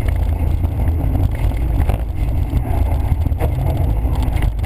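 Nissan Almera GTI rally car at speed, heard from inside the cabin: its engine running hard under a steady, deep rumble of road and wind noise.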